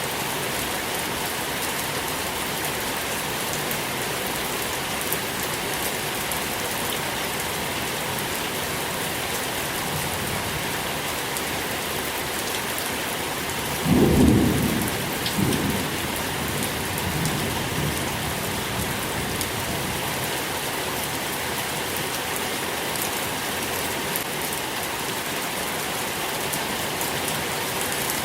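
Steady rain falling, with a clap of thunder about halfway through: a loud low crack, a second smaller peak a moment later, then a rumble fading away over a few seconds.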